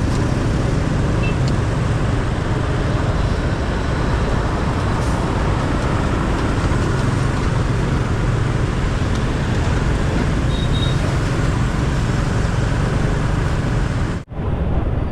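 Motorcycle riding along a road: steady engine drone mixed with wind rush on the camera microphone and passing traffic noise. The sound drops out for an instant near the end, then carries on slightly duller.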